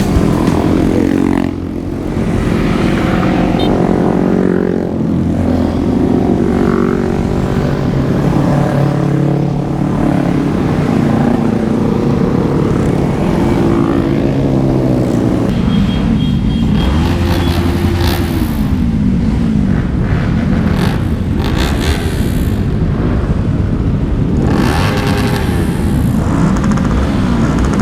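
Several motorcycle engines running together in a group ride, their pitches rising and falling as the bikes rev and shift.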